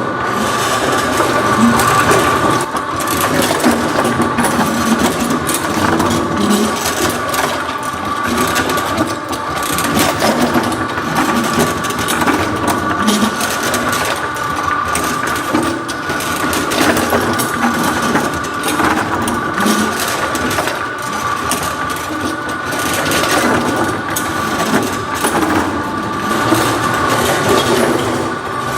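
A small mechanism running with a steady high whine and dense, irregular clicking and rattling.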